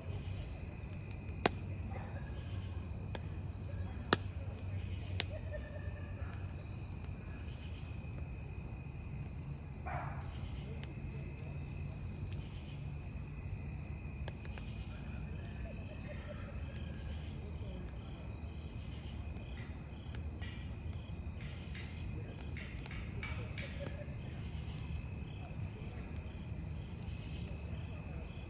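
Crickets chirping continuously over a crackling wood campfire, with a low rumble underneath. Two sharp pops from the burning wood stand out, one about a second and a half in and another about four seconds in.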